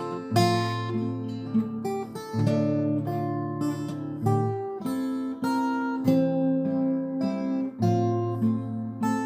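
Steel-string acoustic guitar playing a slow instrumental introduction, with chords struck about every two seconds and left to ring.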